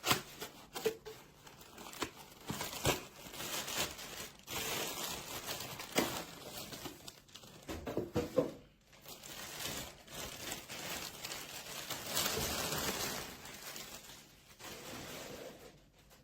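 Packaging being handled and unwrapped: irregular crinkling and rustling, with a few sharp clicks and knocks.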